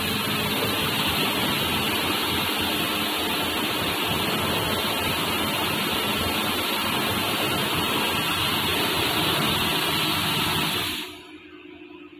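Automatic car wash machine running, a loud, steady rushing hiss of spraying water or blowing air that cuts off suddenly about eleven seconds in.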